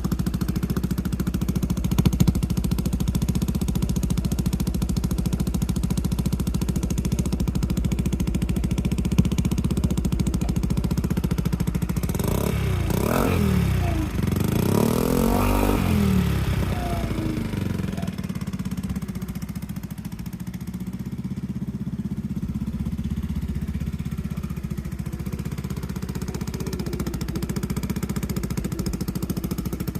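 Yamaha Majesty 125 scooter's single-cylinder four-stroke engine running steadily. About halfway through, the revs rise and fall a few times as the throttle is opened, then settle back.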